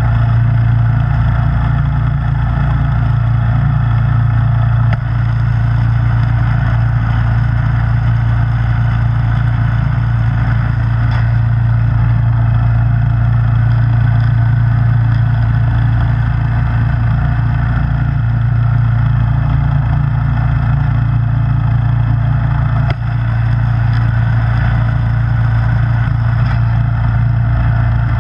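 Snowblower engine running steadily with a constant low drone, dipping briefly twice.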